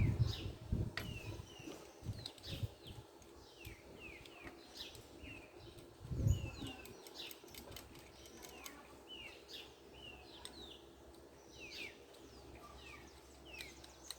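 Birds chirping over and over in short, quick falling chirps, with a few low dull thumps in the first second or so and again about six seconds in.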